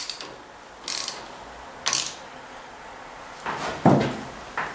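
Ratchet wrench clicking in short strokes about a second apart as it tightens a bolt down snug.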